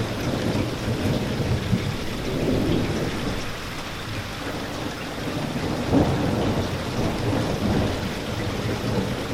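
Steady rain falling, with low rolling thunder underneath. The thunder swells briefly louder about six seconds in.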